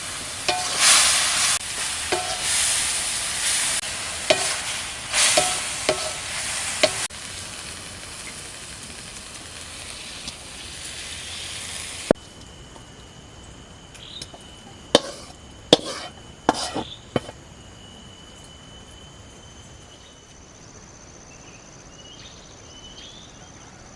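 Food stir-frying in a pan: a spatula scrapes and tosses while the oil sizzles, loudest for the first seven seconds, then a softer sizzle. After an abrupt change about halfway, a few sharp utensil knocks and a steady high thin tone.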